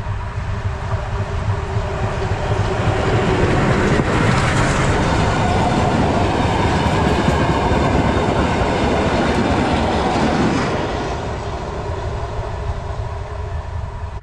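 A train passing close by at speed, loudest in the middle and easing off over the last few seconds.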